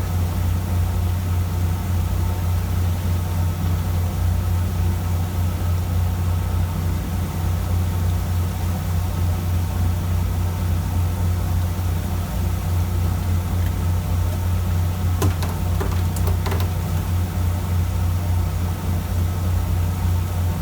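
Fishing boat's engine running with a steady low drone, with a few sharp clicks or knocks about three-quarters of the way through.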